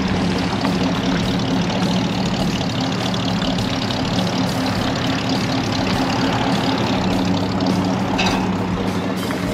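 Lowered custom Mercury's V8 running at a low, steady idle-like rumble as the car rolls slowly away.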